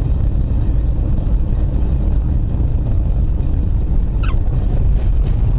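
Steady low rumble of a car driving, engine and tyre noise heard from inside the cabin, with one brief high falling squeak about four seconds in.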